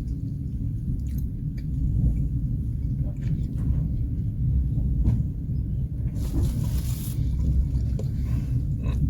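Low steady rumble of a passenger train, with a few faint clicks and a short hiss about six seconds in.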